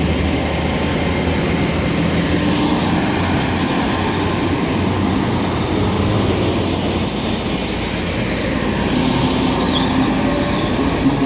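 GWR Class 802 bi-mode IET train pulling out of the station, a steady loud mix of running gear and engine noise with a thin high whine on top and a low hum that fades during the first few seconds.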